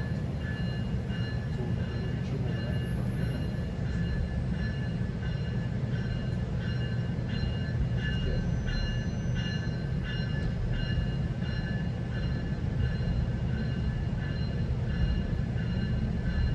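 Steady low rumble of a GO Transit commuter train heard from inside a coach. For roughly the first ten seconds a faint high beeping tone repeats evenly, a little faster than once a second.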